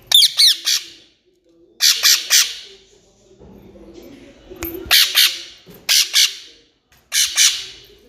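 A parrot squawking: harsh, loud calls in quick clusters of three or four, repeated about five times with short pauses between.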